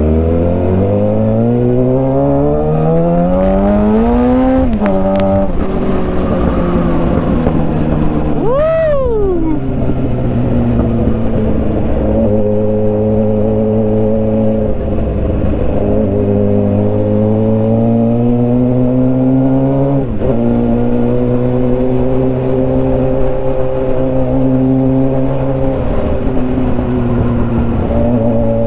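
Suzuki GSX-R 750 inline-four engine and aftermarket exhaust under way: it pulls up through the revs and shifts up about five seconds in, then runs at a fairly steady cruise. There is a short sharp rise and fall in pitch about nine seconds in. The revs climb slowly again and drop at another upshift around twenty seconds in.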